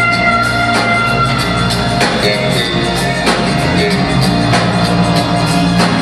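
Live band music, loud, with held instrumental notes over a steady drum beat.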